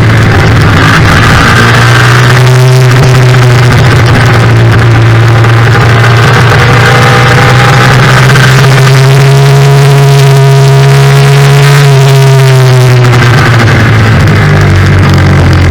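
Yamaha FZ-07 race bike's parallel-twin engine under hard riding, very loud. Its revs drop, climb slowly, hold, then drop again about thirteen seconds in, as the bike goes through the gears and corners.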